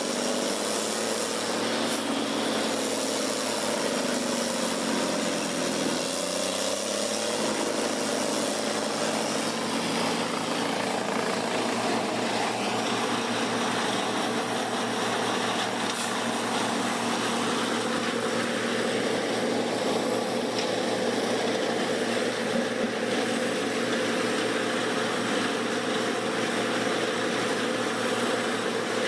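Large wood grinder running steadily, its engine droning over a broad noise of branches and trunks being chipped up.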